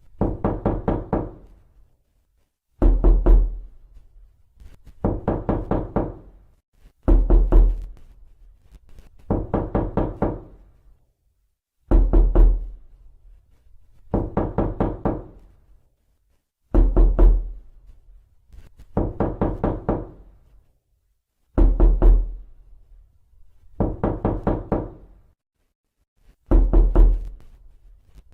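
Knocking on a door, repeated over and over: quick bursts of about five rapid knocks, each burst lasting about a second, with a short silence between bursts. Every other burst has a heavier, deeper thud.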